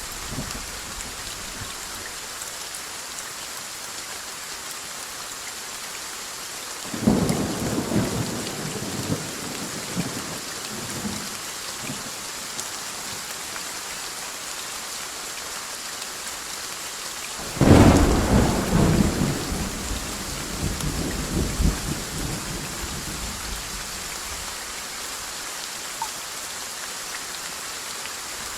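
Steady rain falling, with two rolls of thunder: one about seven seconds in, and a louder one a little past halfway that rumbles on for several seconds.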